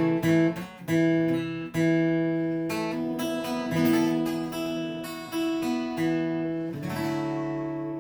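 Acoustic guitar music: chords strummed or plucked every second or so, the last one about seven seconds in left to ring and fade.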